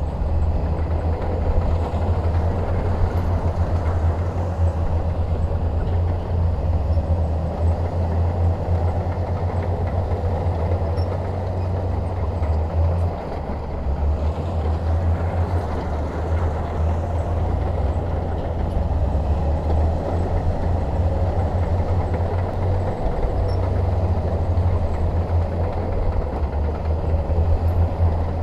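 Crawler bulldozer's diesel engine running under load with a steady low rumble, easing slightly twice.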